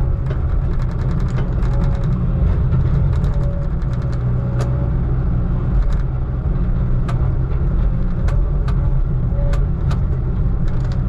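Heavy diesel engine of logging equipment running steadily with a deep rumble, and scattered sharp knocks and clanks over it.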